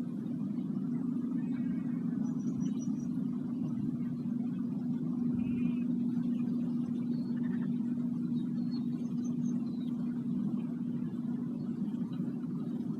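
A sound-bath instrument holding one steady low tone over a rumbling hum, with brief faint bird chirps several times above it.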